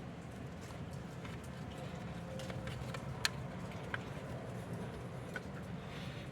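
A few sparse, sharp light clicks over a steady low hum.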